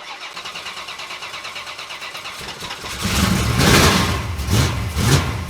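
Foxbody Mustang drag car engine cranking over on its starter for about three seconds, then firing up on a cold start and running loud, with a few quick revs.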